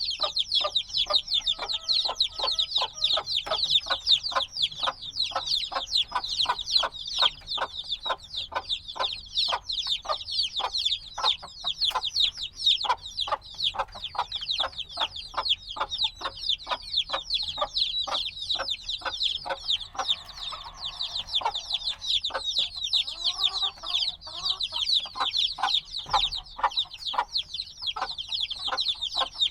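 A brood of chicks a few days old peeping continuously, many short, high, falling chirps overlapping without a break.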